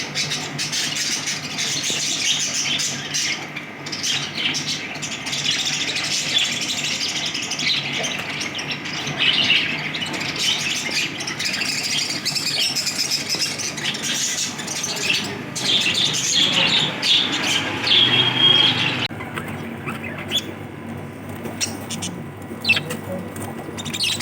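Lovebirds chattering and squawking in a continuous busy din. About 19 seconds in it thins to a few scattered chirps.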